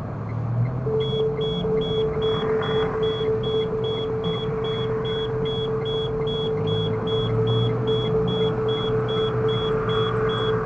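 In-car speed-camera warning alert: short high beeps repeating about two and a half times a second over a steady low tone as the car closes on a fixed speed camera. Cabin road rumble runs underneath.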